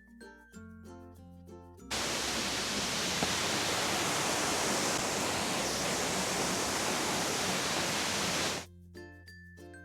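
Light background music with plucked notes, cut about two seconds in by a loud, steady rush of water that stops abruptly near the end as the music returns.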